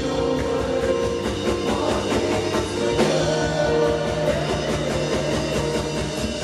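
Worship band playing an instrumental passage with guitar and drum kit on a steady beat, the bass note changing about three seconds in; no singing.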